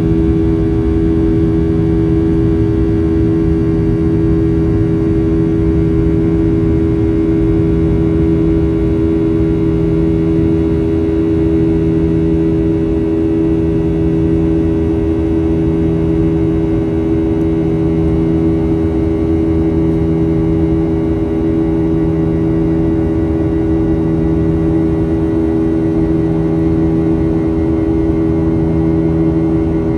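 Steady cabin drone of a Boeing 737-800 in flight: constant engine and airflow noise with a steady low hum.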